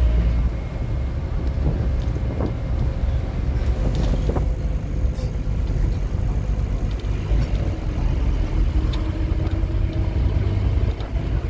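Scania N230UD OmniCity double-decker bus heard from inside while driving: a steady diesel engine drone and road rumble with scattered rattles and knocks. A faint whine rises in pitch about two-thirds of the way through as the bus picks up speed.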